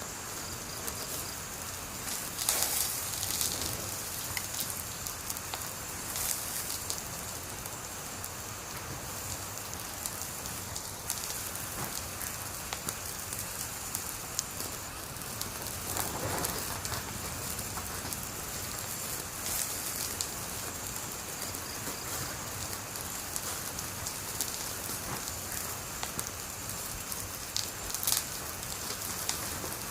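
Wood fire crackling steadily over a constant hiss, with a few louder pops scattered through.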